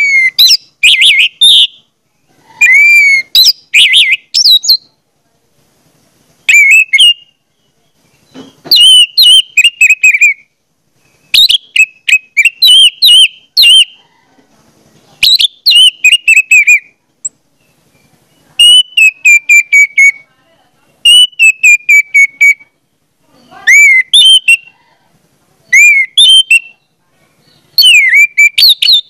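A bird singing loud and close: short phrases of rapid chirps and whistles, a phrase every second or two with brief silent pauses between them.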